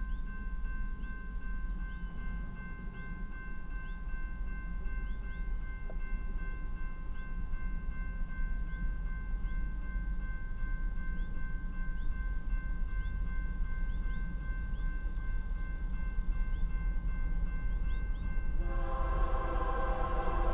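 Low steady rumble of an approaching freight train under a few steady high-pitched ringing tones, with a faint chirp repeating about once a second. Near the end, the lead GE Dash 9-44CW locomotive's air horn starts sounding a loud multi-note chord.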